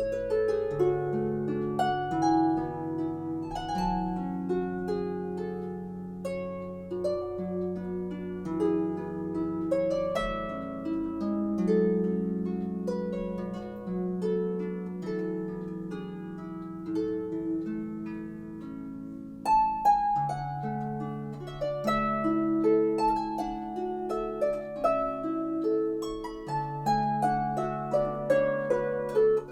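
Solo harp music: a flowing run of plucked notes over ringing lower notes.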